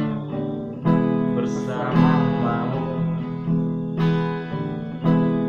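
Acoustic guitar strummed in steady chords, a new strum about once a second, in the gap between sung lines of a song.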